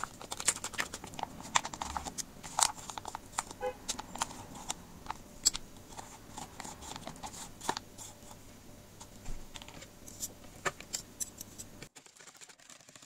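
Irregular light clicks and taps of a kitchen utensil against a mixing bowl and container as strained yogurt is spooned into the beaten eggs, going quieter near the end.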